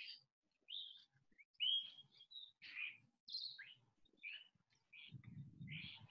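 Birds chirping: a string of short chirps and whistled notes, two or three a second, with a faint low rumble near the end.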